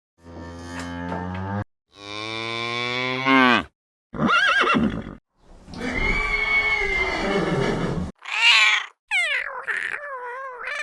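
A string of separate animal calls, each a second or two long, cut one after another with brief silences between. The first ones are low and long, and the last one wavers up and down in pitch like a horse's whinny.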